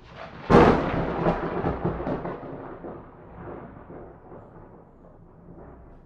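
A single thunderclap: a sharp crack about half a second in, followed by a long rumble that slowly dies away over the next five seconds.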